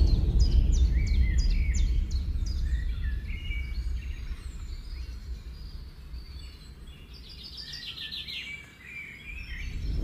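Several birds chirping and calling in short, sharp notes, with a quick run of notes near the end, over a low steady rumble of ambient noise that fades away during the first several seconds.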